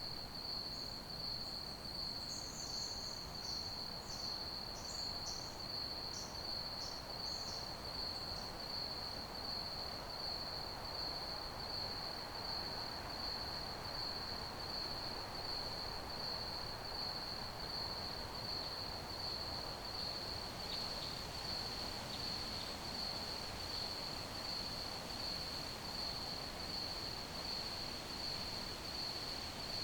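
Crickets chirping in a steady, unbroken high trill over a soft background hiss, with a scatter of short, higher chirps in roughly the first third.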